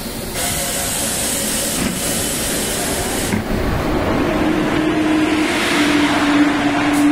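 Locomotive-hauled passenger train running in on the adjacent track, over the steady hiss of a station. About four seconds in, a steady hum from the electric locomotive rises and then holds.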